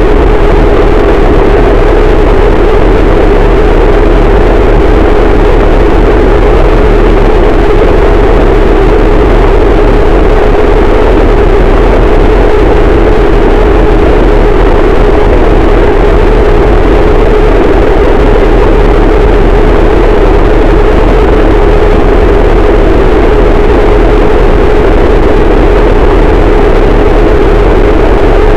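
Harsh noise wall: a constant, very loud wall of distorted static with a heavy deep rumble beneath it. The texture and level do not change at all.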